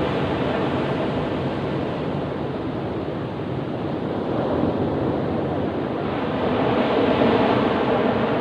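Ocean surf: a continuous rush of breaking waves, swelling louder near the end as a bigger wave comes in.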